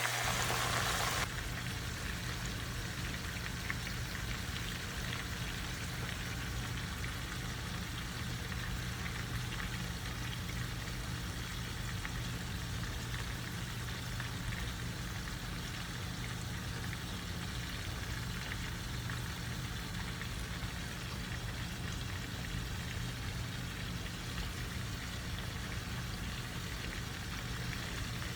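Breaded chicken tenders deep-frying in hot oil, a steady crackling sizzle as they brown, with a steady low hum underneath. The sizzle is a little louder for the first second or so.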